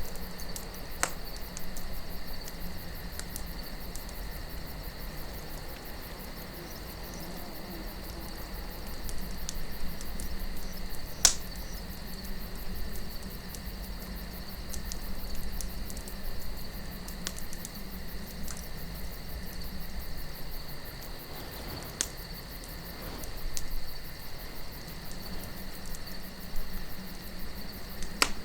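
Campfire burning with a low rumble and scattered sharp wood pops, the loudest about eleven seconds in, over a soft wind and a steady high-pitched trill.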